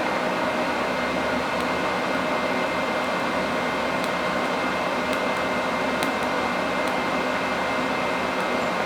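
Steady mechanical hum with a hiss over it, unchanging in level, with a few faint ticks around the middle.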